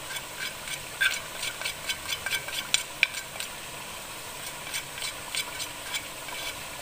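Chicken frying in oil with ginger-garlic paste, a steady sizzle with many small pops and clicks, busiest from about one to three and a half seconds in.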